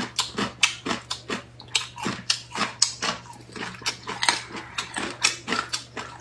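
Chewing and biting on braised chicken feet in sauce, by two people eating: a quick, irregular run of short smacks and clicks, several a second.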